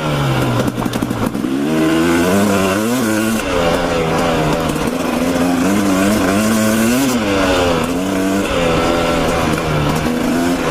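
Dirt bike engine running under changing throttle, its pitch rising and falling several times as the rider blips on and off, over a steady rush of noise.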